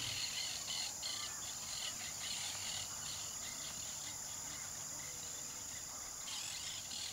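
Insect chorus in forest ambience: a steady high-pitched buzz, with pulsed chirping in the first couple of seconds that returns faintly near the end.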